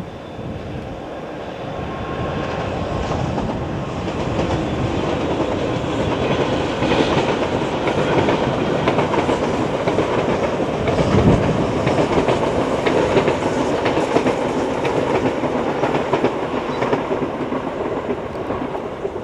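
Diesel-hauled passenger train of Mark 3 coaches rolling past, a steady rail rumble with clickety-clack from the wheels over the rail joints. It grows louder toward the middle as the coaches pass, then eases off as the train draws away.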